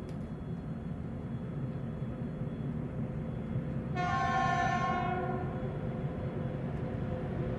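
Train running with a steady low rumble, and a train horn sounding one blast of about a second roughly four seconds in.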